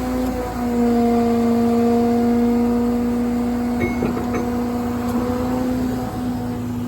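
Truck's hydraulic pump running with a steady whine over the low rumble of the idling diesel, the pitch dipping slightly about half a second in as the load changes.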